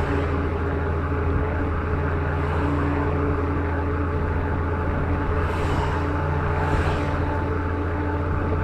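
Steady drone of a truck running at highway speed mixed with rushing wind, heard from a road bike drafting close behind it, with two brief gusts of hiss a little past the middle.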